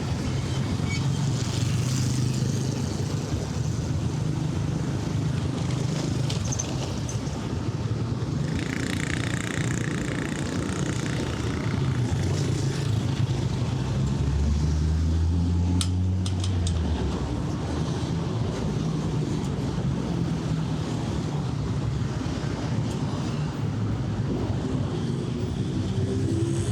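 City street traffic: vehicle engines running and passing in a steady low hum, with a deeper, heavier engine note a little past halfway and a single sharp click.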